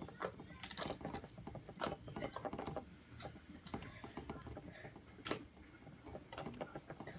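Homemade glue and shaving-cream slime squished and stretched by hand, giving many irregular sticky clicks and pops.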